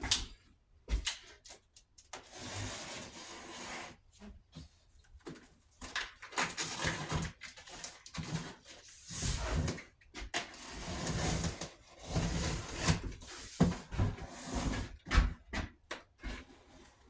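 A large cardboard box being opened and handled: stretches of cardboard scraping and rustling, broken by many knocks and thumps.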